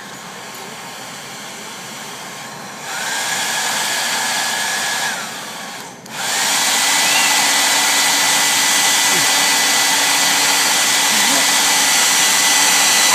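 Revlon handheld hair dryer blowing: a steady hiss with a high whine. It is quieter at first and louder from about three seconds in. The whine falls and the sound briefly cuts out near six seconds, then it starts again louder and runs steadily.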